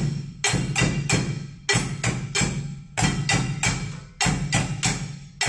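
Improvised household percussion, pots and buckets struck with sticks, played together in unison. A repeating rhythm of quick, ringing strikes in groups of three or four with short gaps between.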